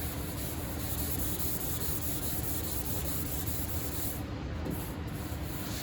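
Hand-sanding a car hood panel with 600-grit sandpaper: a steady back-and-forth scrubbing that takes out the coarser 400-grit scratches. There is a short break in the strokes about four seconds in.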